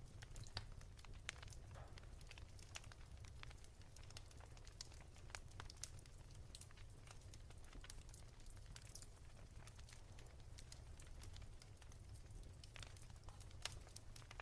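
Wood fire crackling softly, with scattered irregular snaps and pops over a steady low hum.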